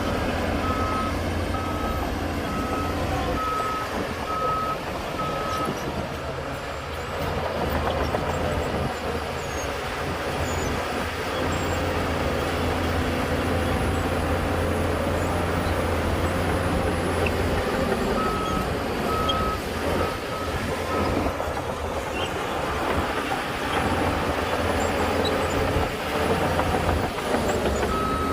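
Heavy diesel earthmoving machinery running steadily, with a reversing alarm beeping in three spells: for the first few seconds, again about two-thirds of the way through, and near the end.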